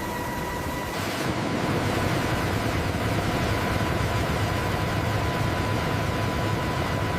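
Steady, heavy mechanical rumble of a large engine or machine, with a constant high whine over it; it gets louder about a second in and then holds steady.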